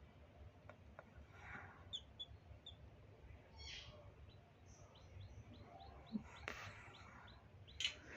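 Newly hatched chicks peeping faintly, short high peeps that come sparsely at first and then in a quick run of about four a second in the second half, with a few faint soft clicks.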